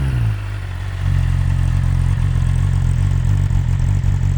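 2020 BMW S1000RR's inline-four on its stock exhaust, just fired up: the revs fall from the start-up flare over the first second, then it idles steadily.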